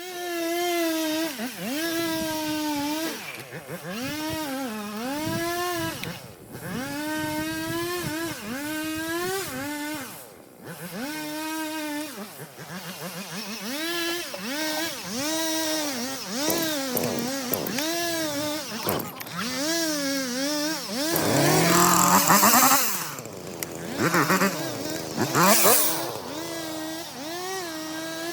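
Two-stroke chainsaw running at high revs while cutting wood. Its pitch sags again and again as the chain bites and climbs back between cuts, with a louder, harsher stretch a little past the middle.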